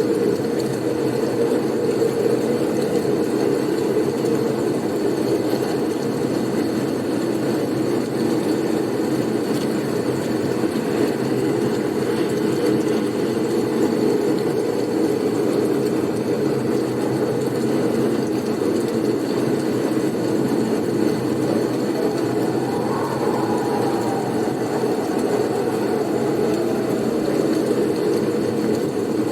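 Steady blizzard wind, a dense low rushing noise, with a faint whistling tone that rises and falls about three-quarters of the way through.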